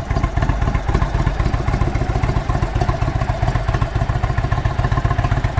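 2019 Indian Chieftain Dark Horse V-twin, fitted with a stage 1 air intake and stage 2 cams, idling steadily at minimum throttle while still warming up.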